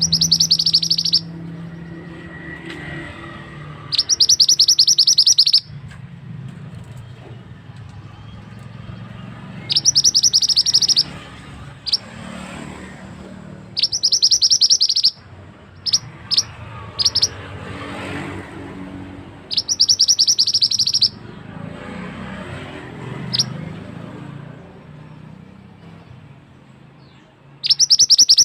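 Mantenan bird singing: loud bursts of a fast, harsh rattling trill, each about a second and a half long, repeated every few seconds, with a few single sharp notes between them. A steady low rush of flowing water runs underneath.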